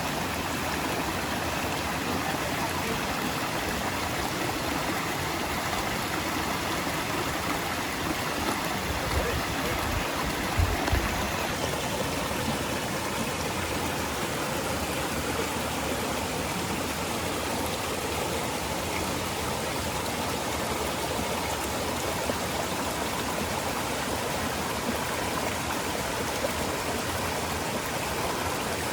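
Steady rush of fast-flowing water from a mountain stream and waterfall, even and unbroken, with a few short low thumps about nine to eleven seconds in.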